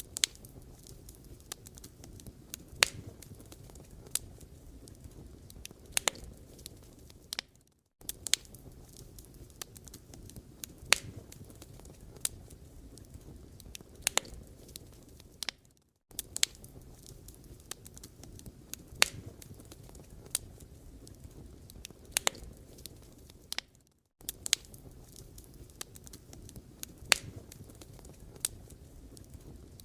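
Firewood burning, crackling steadily with sharp pops and snaps every second or so. The sound drops out briefly about every eight seconds.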